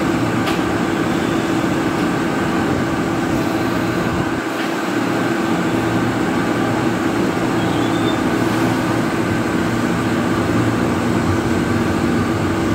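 KRL electric commuter train standing at the platform with a steady hum made of a few even, unchanging tones; the train starts to roll near the end.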